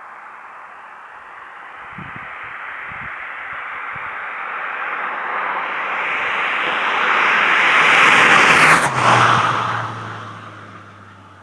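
Opel Astra 2.0 Turbo with a 2.5-inch sport exhaust and RM Motors RM9 rear silencer driving past: the sound builds over about eight seconds, peaks with a brief dip at its loudest, then fades as the car moves away, leaving a low exhaust drone.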